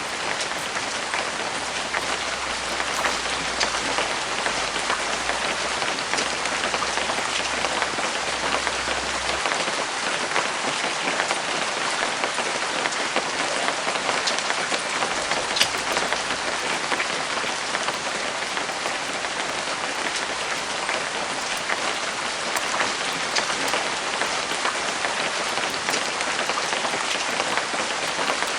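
Steady rain falling, with many individual drops ticking irregularly through it.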